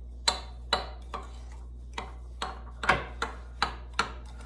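A spoon mixing a panko crumb topping in a bowl, knocking and scraping against the bowl about ten times in an uneven rhythm.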